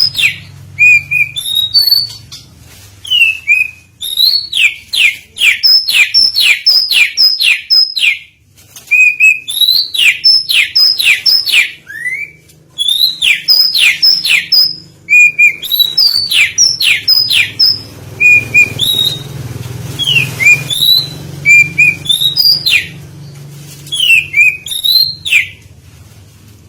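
Oriental magpie-robin (kacer) singing loud, varied phrases: rapid runs of sharp, down-sweeping whistled notes mixed with short chirps, broken by brief pauses. A faint steady low hum runs underneath.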